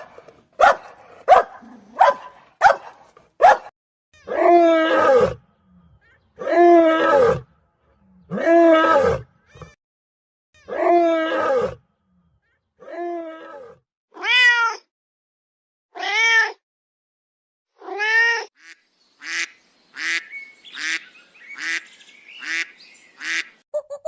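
A cat meowing over and over: drawn-out meows about two seconds apart, after a few short sharp calls at the start and before a quicker run of short meows near the end.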